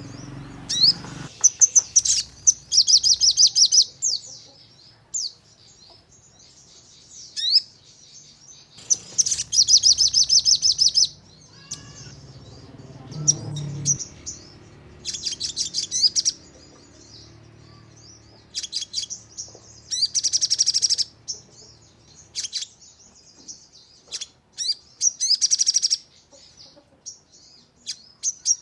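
Sogon (crimson sunbird) singing: rapid, high-pitched trilling bursts of a second or two, the 'nembak' song, repeated about five times, with short sharp chirps in between.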